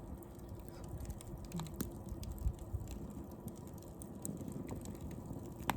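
Wood bonfire crackling, with scattered sharp pops over a low steady rumble.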